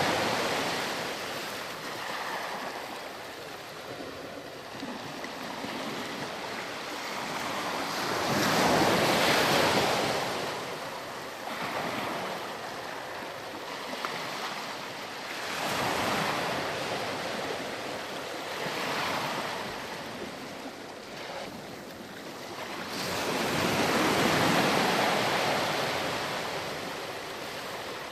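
Ocean surf breaking and washing up on a sandy beach, the rush of water swelling and fading every few seconds, about five waves.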